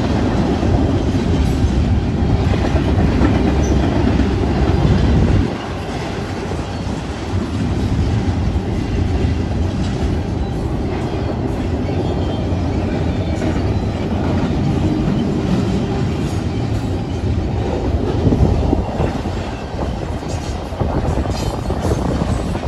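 Canadian Pacific freight train's double-stack container cars rolling past: a steady rumble with the clatter of wheels over the rails. The rumble is loudest for about the first five seconds, then drops a little.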